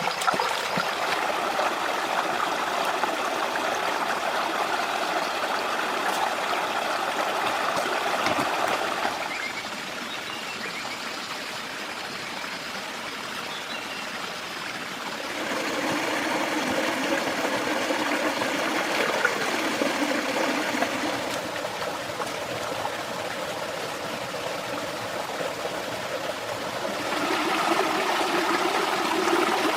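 Water running in a stream, a steady rush and trickle whose sound shifts a few times, near 9, 15 and 27 seconds in.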